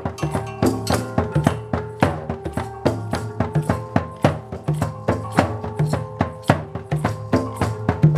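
Live percussion music: a quick, steady run of sharp hand-played strikes over ringing pitched tones and low drum notes.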